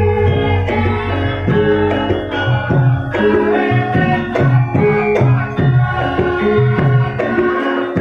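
Javanese gamelan music accompanying lengger dance: ringing metallophone tones held over a steady, repeating pattern of kendang hand-drum strokes.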